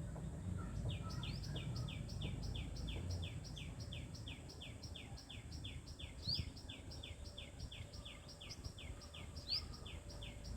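A bird calling a rapid, even series of short, high, falling chirps, about four a second, with occasional higher notes mixed in, over a low background rumble.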